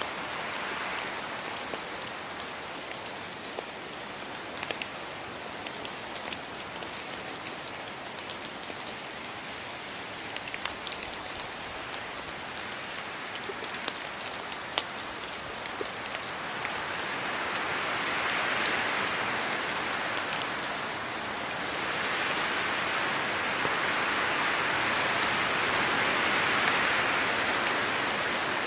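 Steady rain falling, with sharp clicks of single drops now and then. The rain swells heavier about two-thirds of the way through and stays heavy toward the end.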